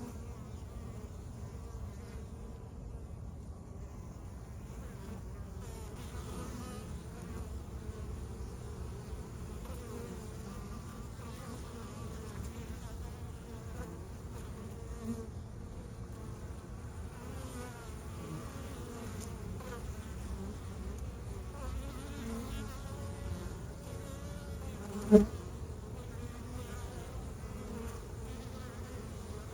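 Honeybees buzzing steadily around a log beehive, with individual bees' pitch wavering as they fly past. Near the end there is one brief loud bump.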